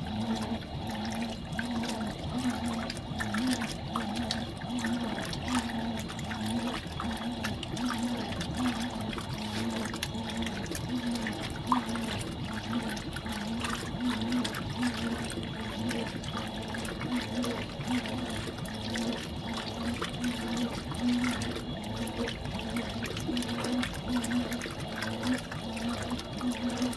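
Fisher & Paykel washing machine running a load of washing: water running and splashing in the tub over a steady low hum that wobbles at a fairly regular pace.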